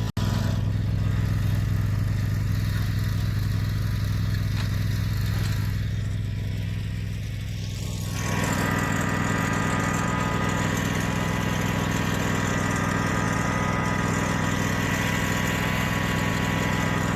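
Lawn tractor engine running at a steady speed, with a brief cut right at the start. About eight seconds in, a louder mechanical noise with a thin high whine joins the engine hum.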